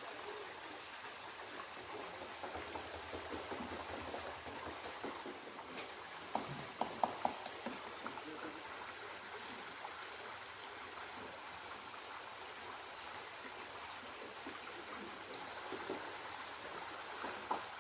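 Hot mineral spring water gushing from the rock and running in a steady rush. A few short knocks come near the middle.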